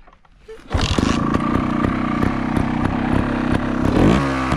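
Dirt bike engine starting up a little under a second in and then running steadily, with a short throttle blip that lifts and drops the pitch near the end.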